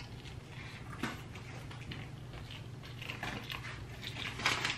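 Close-up mouth sounds of a person chewing a McDonald's McChicken sandwich: wet crackles and smacks, the loudest near the end.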